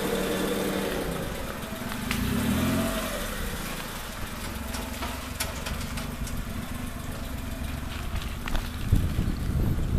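Road traffic: motor vehicle engines running and idling, with one swelling louder about two seconds in. Wind buffets the microphone near the end.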